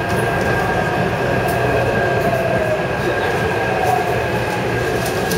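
Taipei Metro 371-type electric train running along the track: a steady rumble of wheels and running gear, with a constant high tone and wavering lower tones over it.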